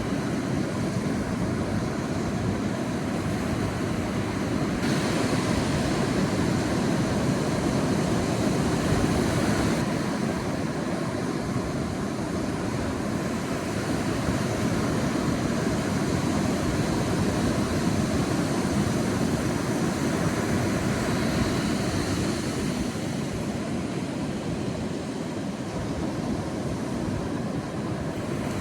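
Sea surf washing onto a beach: a steady rushing wash that swells and eases slowly, a little louder from about five to ten seconds in.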